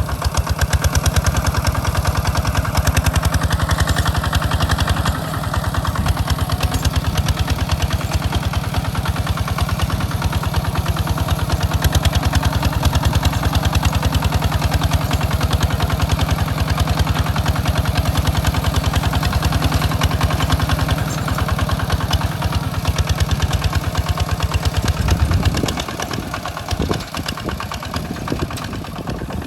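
Tractor engine chugging steadily at a fast even beat while plowing a rice field. Near the end it swells briefly, then drops to a quieter, more uneven running.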